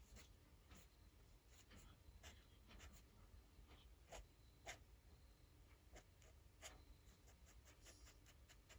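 Faint scratching of a fine-tipped ink pen drawing on paper: short, irregular strokes scattered throughout, a few of them louder near the middle.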